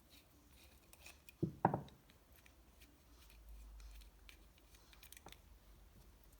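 Light clicks and handling noises of small engine parts being worked over at a workbench, with a brief, louder double thump about one and a half seconds in.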